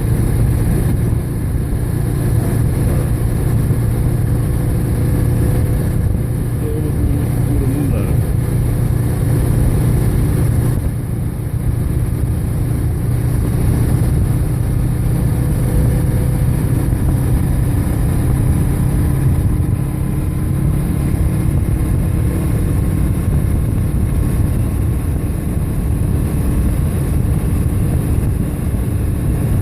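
Motorcycle engine running at a steady cruise under heavy wind and road noise, its pitch drifting slowly as speed changes.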